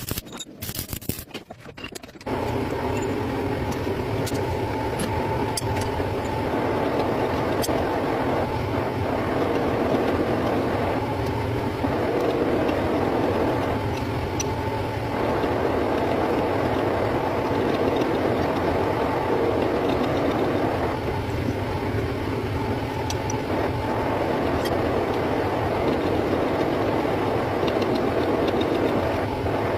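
Metal lathe running steadily: a continuous mechanical hum and rattle. The first two seconds are choppy, cut-up bursts.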